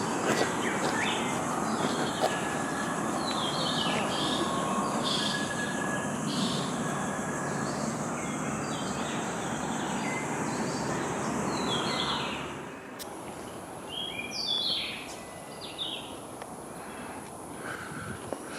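Forest birds chirping and calling repeatedly over a steady high insect drone. A broad rushing noise sits under them and cuts off abruptly about two-thirds of the way through.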